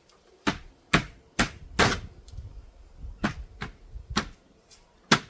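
A series of about nine sharp knocks at uneven intervals, like work on the window frame as it is fitted into the opening.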